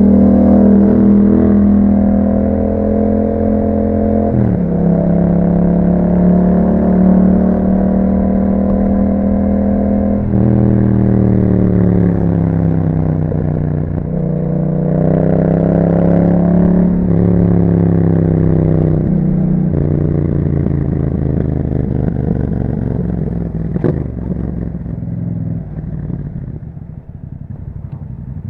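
2021 Yamaha MT-07's 689 cc parallel-twin engine through an Akrapovic exhaust, ridden under way. Engine speed climbs and drops in steps through several gear changes, easing off to a quieter run near the end.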